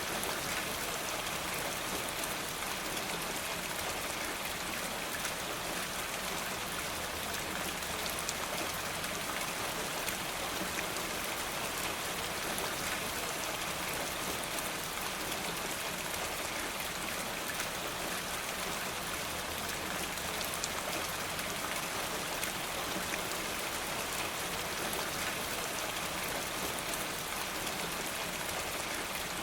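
Steady rain falling, an even hiss full of fine drop ticks that holds at one level throughout.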